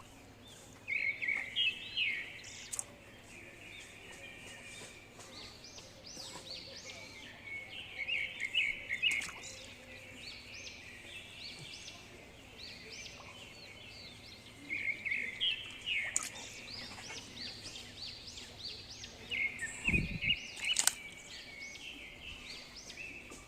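Birds chirping in repeated bursts of quick high calls, over a faint steady hum, with a low thud about twenty seconds in.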